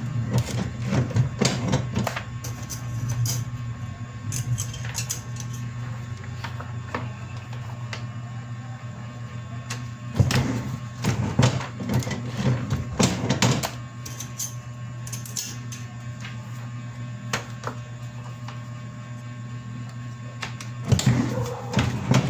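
Steady low hum of a running machine, with scattered clicks and knocks and a busier clatter about ten to fourteen seconds in.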